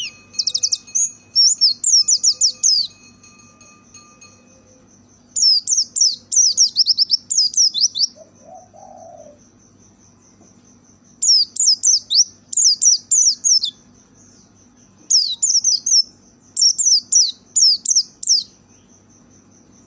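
White-eye (pleci) singing in four bursts of rapid, high, falling chirps a few seconds apart, with a steady high pulsing tone filling the pauses between them.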